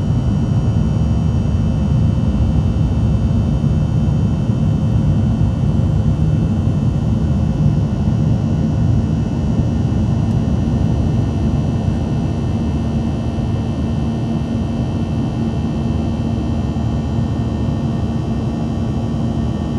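Cabin noise inside a Boeing 737-900 climbing after takeoff: a steady rumble of the CFM56-7B engines and airflow, with a few faint steady tones above it. The level eases slightly in the second half.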